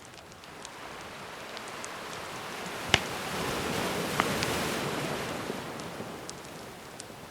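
A gentle ocean wave swells in and washes back out, loudest a little past the middle. Campfire crackles over it: scattered sharp pops, the loudest about three seconds in.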